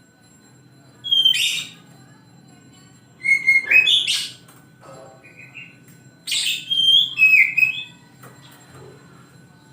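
Oriental magpie-robin (kacer) singing in three bursts, each mixing harsh, scratchy notes with short clear whistles, over a faint steady low hum.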